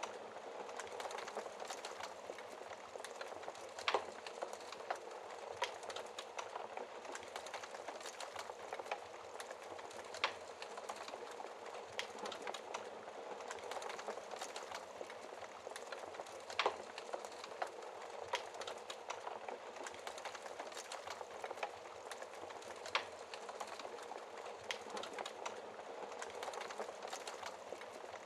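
Wood fire crackling: a steady hiss full of small crackles, with a few louder, sharper pops spaced several seconds apart.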